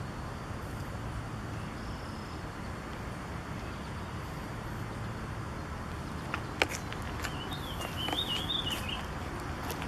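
A songbird gives a short, wavering, high-pitched warbling call, about seven to nine seconds in, preceded by a few sharp clicks. Underneath is a steady low outdoor rumble.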